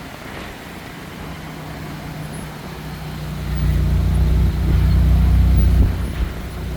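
A motor vehicle passing close by: a low, steady engine rumble that grows louder, is loudest about four to six seconds in, then drops away.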